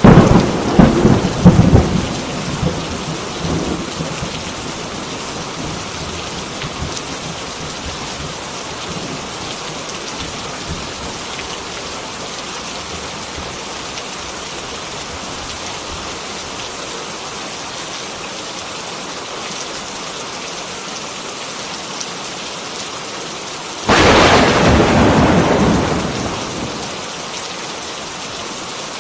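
Heavy rain falling steadily, with two loud claps of thunder: one right at the start that rumbles away over a few seconds, and another near the end that starts suddenly and fades over about three seconds.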